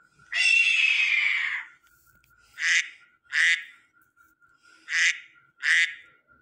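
A bird calling: one long harsh call that falls in pitch, then two pairs of short harsh calls.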